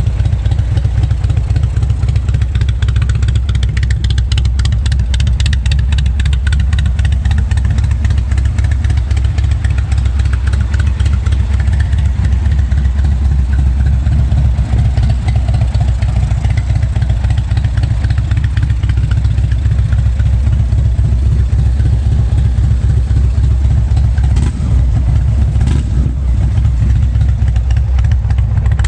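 2016 Indian Chieftain's Thunder Stroke 111 V-twin idling steadily through an aftermarket exhaust and intake, a deep, even low rumble.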